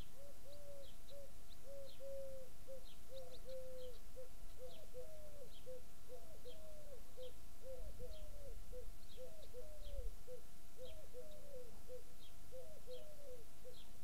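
Birdsong in a garden: one bird gives an unbroken run of short, low, cooing-like notes, about two or three a second, some gliding down in pitch. Faint high chirps from small birds are scattered over it.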